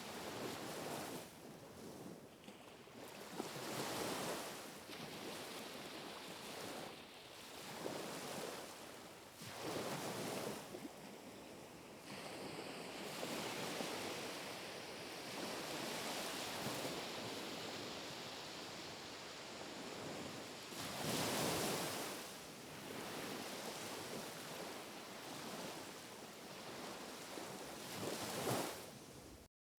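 Small, gentle waves breaking and washing onto the shore, one swell of wash every two or three seconds, with a louder wave about three-quarters of the way through. The sound cuts out for a moment just before the end.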